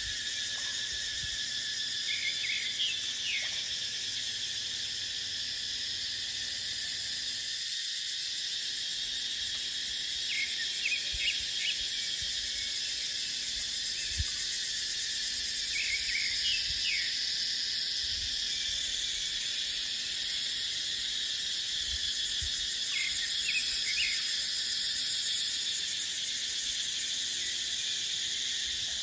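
Cicadas droning in a steady, high-pitched chorus that swells into an even pulsing twice, around the middle and again later on. Short high chirps break in now and then.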